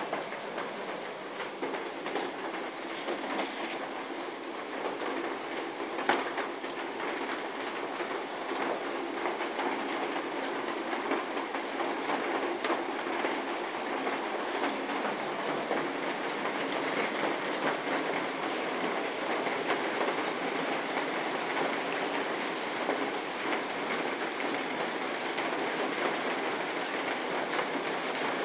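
Hail and heavy rain pelting down, a dense, steady clatter of countless small hits, growing slightly louder partway through, with one sharper knock about six seconds in.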